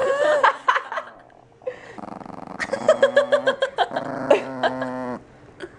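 A dog growling and grumbling in drawn-out, pulsing bouts, with a short higher whine-like sound at the start.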